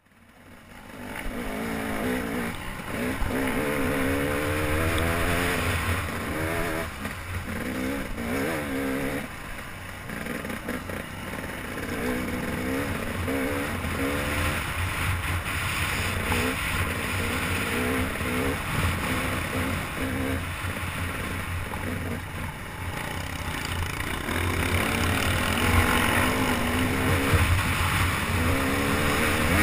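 Dirt bike engine heard from the rider's own bike on a trail ride, its pitch rising and falling constantly as the throttle is worked, over a steady rush of wind and trail noise. The sound fades in over the first second.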